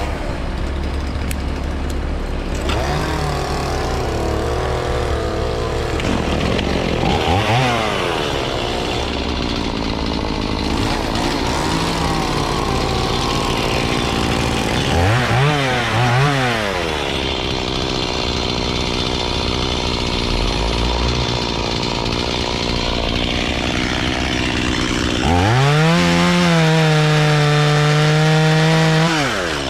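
Two-stroke chainsaw revving up and down several times, then held at full throttle for about four seconds near the end, as it cuts walnut logs. A low engine drone runs beneath it in the first several seconds.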